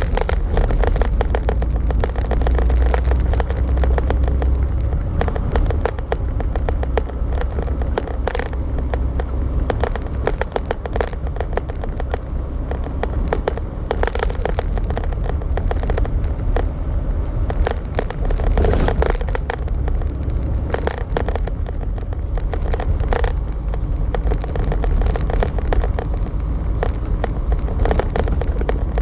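Semi truck driving, heard as a steady low engine and road rumble with frequent short clicks and rattles.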